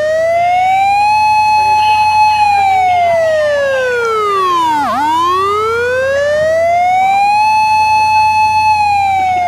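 Emergency siren sounding a slow wail: the pitch climbs, holds high for about a second, drops to a low point about five seconds in, then climbs, holds and starts falling again.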